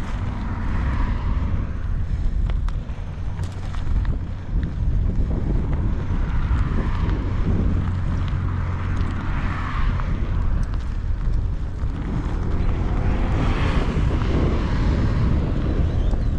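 Wind buffeting the microphone during a bike ride: a loud, steady low rumble, with gusts swelling and fading several times.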